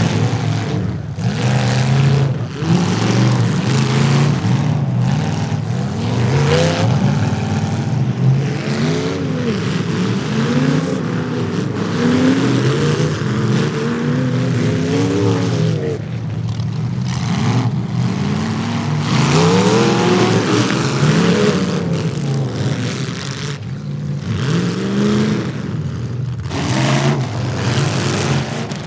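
Demolition derby cars' engines revving up and falling back over and over, several at once, with a few sharp bangs of car bodies hitting.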